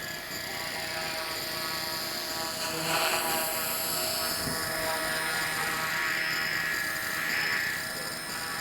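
Small RC helicopter's brushless motor and rotors whining steadily, swelling a little louder twice. It is running on a nearly flat battery, which has noticeably changed its sound.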